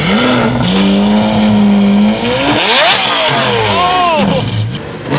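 A high-performance car engine revving: the pitch climbs, holds at high revs for a moment, then rises and falls in several quick blips.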